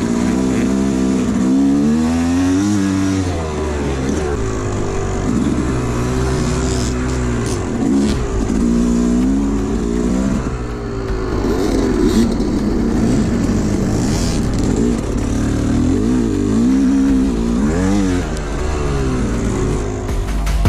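Dirt bike engine being ridden, its pitch rising and falling over and over as the throttle is opened and closed and the gears change.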